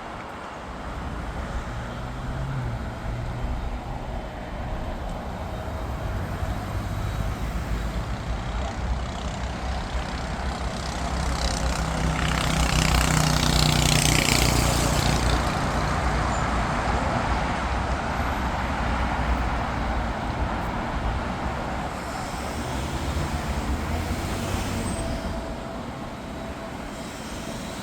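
Jet airliner engines passing, a rumbling roar with a rushing whoosh that swells to a peak about halfway through and then slowly fades.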